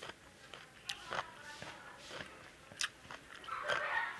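Close-up chewing and mouth smacks of someone eating rice and lauki kofta curry, with several sharp clicks. Near the end comes a louder stretch as fingers mix rice and curry on a steel plate.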